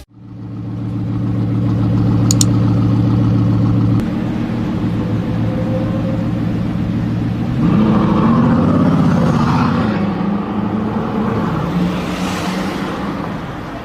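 Supercar engine running at a steady low idle note, then revved once about eight seconds in, the pitch rising and dropping back before it settles.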